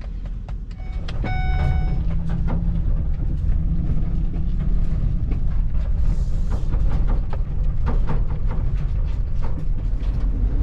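Vehicle running, a steady low rumble that grows louder about a second in, with scattered small clicks and rattles. A short electronic chime sounds about a second and a half in.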